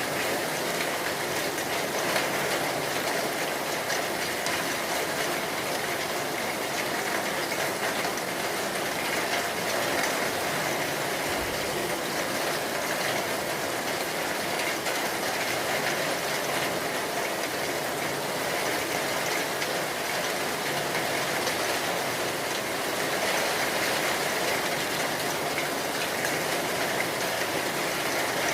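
Steady heavy rain, an even hiss that holds at the same level throughout.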